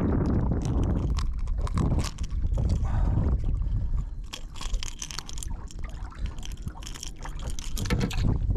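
Wind buffeting the microphone in a steady low rumble, with a busy run of water splashes and small knocks over it, thickest in the second half.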